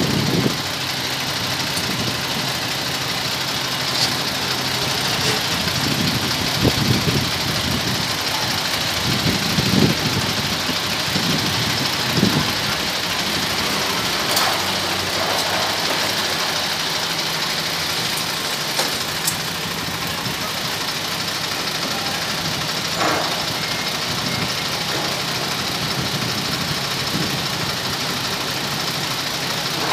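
Scania P410 truck's diesel engine running steadily at idle, with a few brief clicks and knocks over it.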